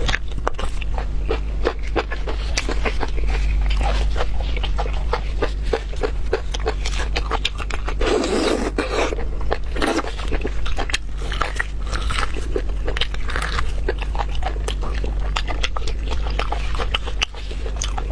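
Close-miked eating of beef bone marrow: dense, irregular wet smacking and chewing clicks, with a longer noisy stretch of slurping about eight seconds in. A steady low hum runs underneath.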